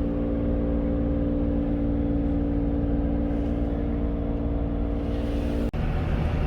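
A truck engine idling steadily with an even, unchanging hum. Near the end it breaks off abruptly and comes back rougher and noisier.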